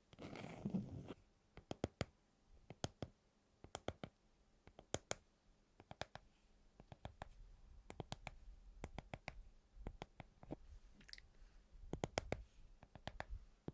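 Faint, sharp clicks and light taps, irregular and in small clusters, after a brief rustle in the first second.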